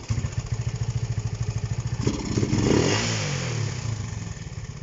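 Honda CB125 RS motorcycle engine idling, then the throttle is blipped about two seconds in; the revs climb briefly and sink back to a steady tick-over. The engine is running poorly and struggles to take throttle.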